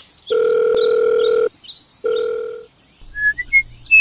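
Electronic telephone-style tones: two long steady ring tones, then a quick run of four beeps rising in pitch near the end.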